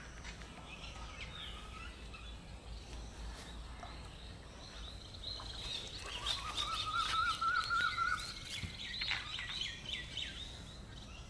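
Wild birds calling and chirping outdoors, busiest in the second half, with a wavering trill from about six to eight seconds in, over a steady low rumble.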